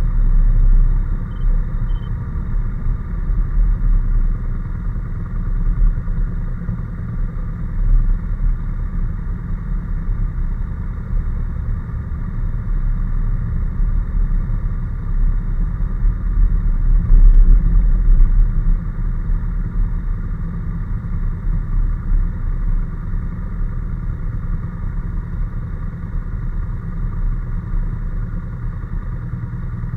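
Honda NC750S parallel-twin engine running at a steady cruising speed, with a heavy low rumble of wind and road over it. It swells louder briefly a little past halfway.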